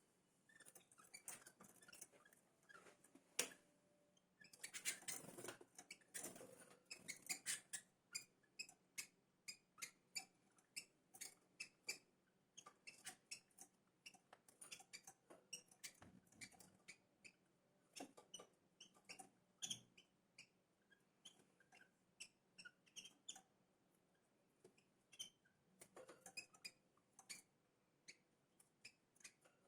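Small birds making many short, high chirps and squeaks, with light scratchy clicks mixed in.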